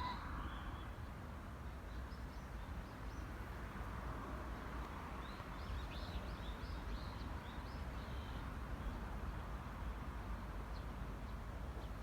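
A bird chirping a quick run of short, high notes over a steady low outdoor rumble.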